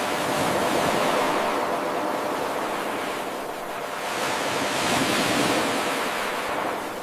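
Ocean surf washing in: a steady hiss of breaking waves that swells and ebbs twice. It is a looped recording, so the wave sound jumps in abruptly at the very start as the loop restarts.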